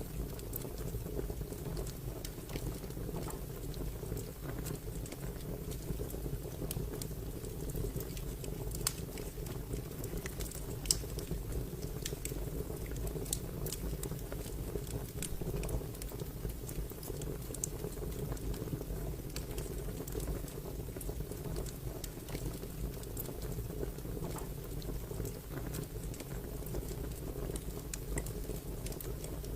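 Fire crackling: scattered sharp pops and snaps over a steady low rumble, with one louder pop about eleven seconds in.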